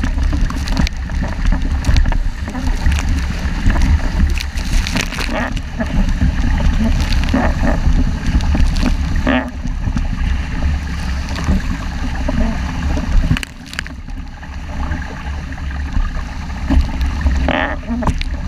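Wind buffeting the microphone with a heavy rumble, over water rushing and splashing against the hull of a 470 dinghy sailing fast in strong wind. It eases somewhat about 13 seconds in.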